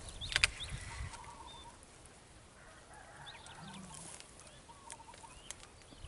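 Faint bird calls: short trilled notes repeating every second or two, with a few higher chirps, and a sharp click about half a second in.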